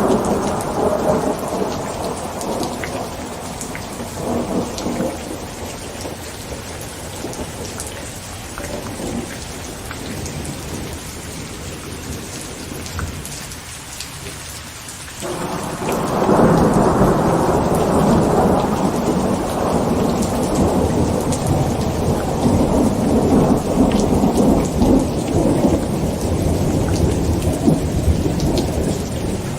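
Heavy rain pattering on a tent through a thunderstorm. A thunder rumble fades over the first few seconds, and about halfway through a new peal comes in suddenly and rumbles on to the end.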